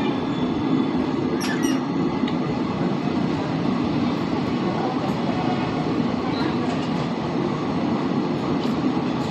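Passenger train running, heard from on board as a steady rumble, with two brief sharp high clicks about one and a half seconds in.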